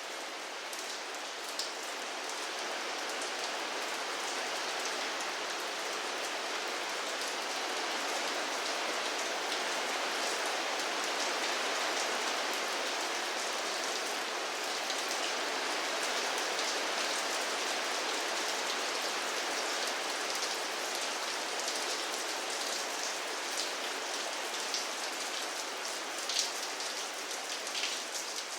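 Steady rain falling on a hard surface, a dense even hiss with separate drops ticking more sharply near the end.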